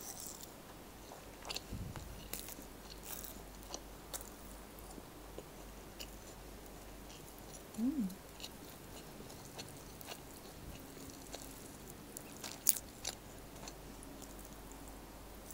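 Close-miked mouth sounds of someone eating soft eggplant omelette and rice: quiet chewing with scattered wet clicks and lip smacks. A brief hummed "mm" comes about eight seconds in, and the sharpest click comes near the end.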